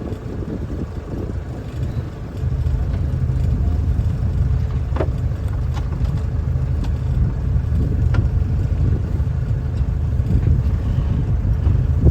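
Wind buffeting the microphone on a sailboat in strong wind, a low rumbling that grows louder with a gust about two and a half seconds in and stays strong. A few light clicks or knocks come through around the middle.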